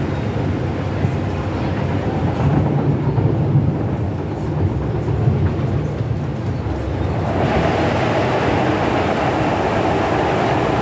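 MTR M-Train electric multiple unit running on the Disneyland Resort Line, a steady low rumble of wheels on rail. About seven and a half seconds in, the rolling noise grows louder and brighter.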